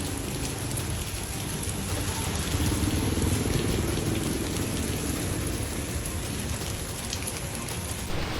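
Heavy rain pouring down, a steady hiss with a low rumble underneath that swells around the middle. The sound changes abruptly just before the end.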